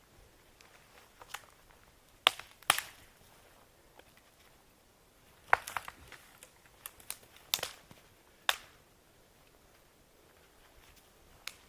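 Scattered sharp knocks and crunches, a handful of separate strikes a second or more apart, the loudest about two seconds in and again between five and nine seconds.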